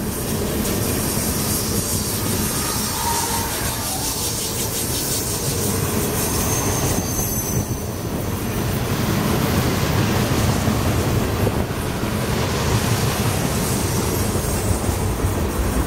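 Loaded freight tank cars rolling past on steel wheels: a steady rumble and clatter of wheels on rail, with a brief high wheel squeal about six seconds in.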